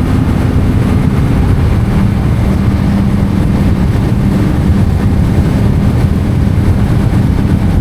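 Yamaha MT-07's parallel-twin engine running through an Akrapovic titanium exhaust at steady riding revs, easing slightly lower about two seconds in and then holding.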